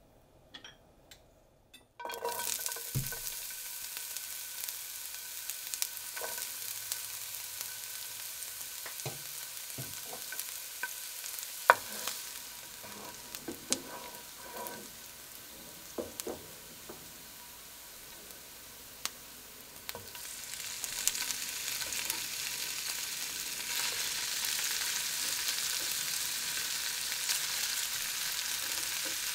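Chopped white onion frying in hot oil in a nonstick skillet: a steady sizzle starts suddenly about two seconds in, with a wooden spoon knocking and scraping against the pan. Past the middle the sizzle grows louder as chopped boiled beef tongue goes into the pan.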